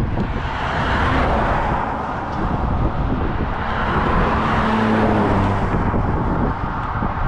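Motorway traffic: vehicles passing at speed, with tyre and engine noise swelling about a second in and again around four to five seconds in.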